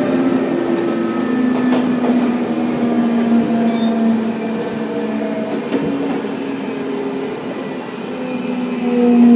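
Sotetsu 9000 series electric train running, its traction motor and inverter tones gliding slowly down in pitch over the rumble of the wheels on the rails. The sound dips a little just before the end, then grows louder again with a new set of falling tones.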